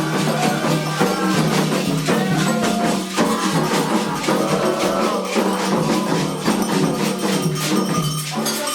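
Candomblé xirê music: continuous fast hand percussion with jingling, shaker-like strokes keeping a steady rhythm, under a sung melody.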